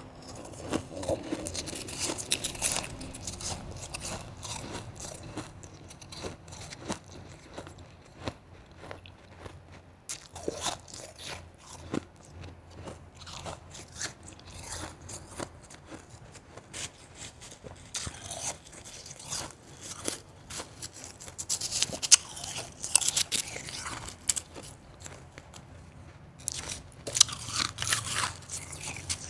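Close-up crunching and chewing of blended and shaved ice from spring-water ice cubes: repeated bites of soft, fluffy ice breaking up in the mouth, in irregular clusters with louder bites about two thirds of the way through and near the end.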